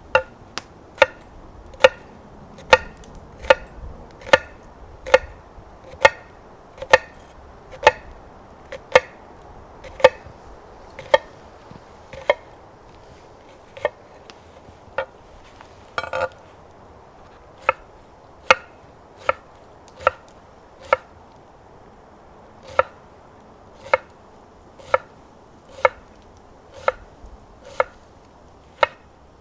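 Knife chopping food on a cutting board, slow single strikes about once a second with a few brief pauses.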